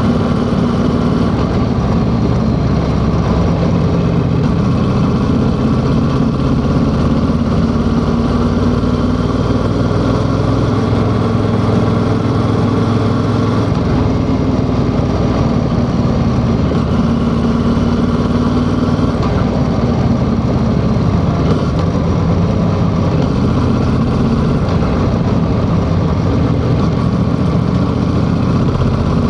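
Yamaha XSR700's 689 cc parallel-twin engine running steadily under the rider, its engine speed rising and falling gently a few times, with a steady low rush of wind and road noise.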